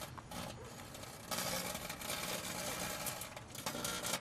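Microwave oven running with a steady hum. About a second in, a louder buzzing hiss sets in, from arcing or plasma inside the oven around a light bulb being microwaved.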